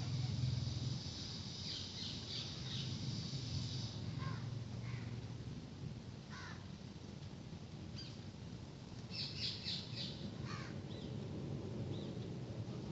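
Parrots giving short, harsh squawks on and off, with a quick run of calls about nine seconds in, over a low background rumble that fades after the first few seconds.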